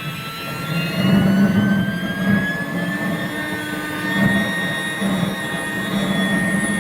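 Homemade turbine jet engine running, its whine rising in pitch over the first few seconds and then holding steady, over a low pulsing rumble.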